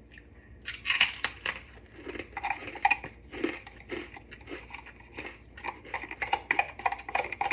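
Tortilla chips crunching and crackling, with irregular clicks and short scrapes.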